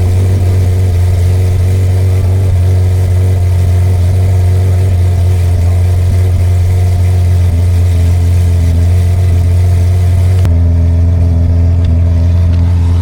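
A car engine running steadily at idle, a loud, even low drone; the sound changes abruptly about ten seconds in.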